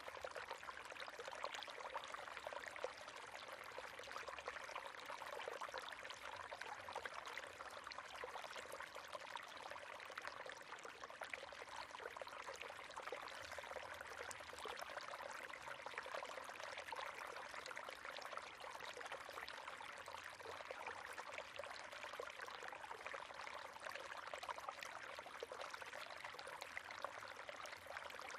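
River water flowing steadily over stones, a continuous rushing and splashing with no pauses.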